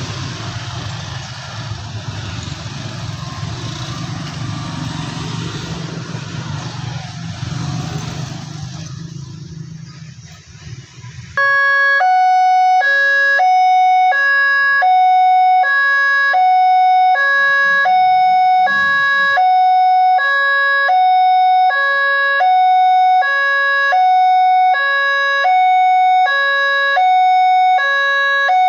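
Road traffic and engine rumble fades out. About eleven seconds in, an electronic level-crossing warning alarm starts abruptly, a steady two-tone signal alternating high and low about once a second, which means a train is approaching and the crossing is closing.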